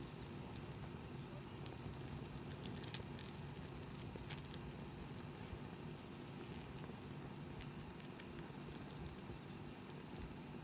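Wood campfire burning quietly, crackling with scattered small pops and clicks, most of them about two to four seconds in and again near the end. A thin high tone comes and goes every couple of seconds.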